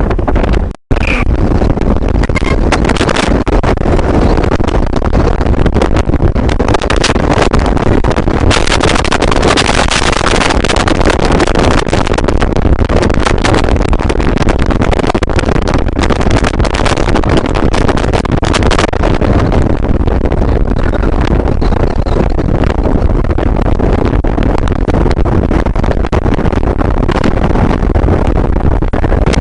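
Steady running noise of a moving vehicle, with wind buffeting the microphone; the sound cuts out for an instant about a second in.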